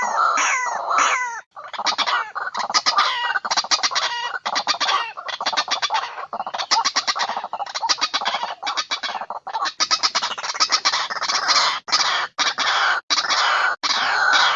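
White-breasted waterhen (ruwak-ruwak) calls played back as a bird-trapping lure: a dense run of rapidly repeated call notes, with a short gap about a second and a half in and a few brief breaks near the end.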